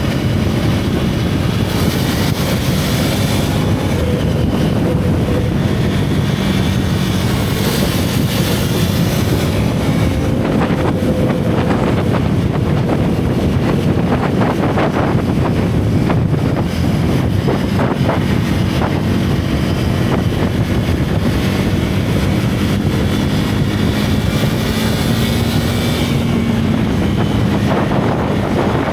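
Single-cylinder motorcycle engine and exhaust running under way, its pitch drifting gently up and down with the throttle. Wind rushes over the microphone throughout.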